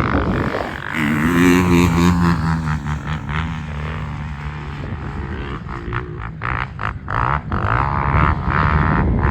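A motor vehicle's engine running, its pitch wavering up and down in the first few seconds, then a rougher stretch with a run of short rattles and knocks.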